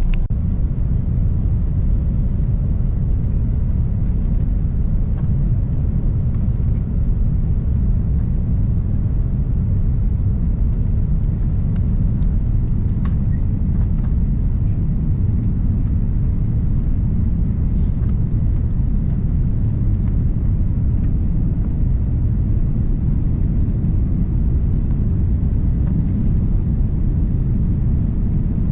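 Airliner cabin noise heard from a passenger seat: a steady low rumble of jet engines and airflow.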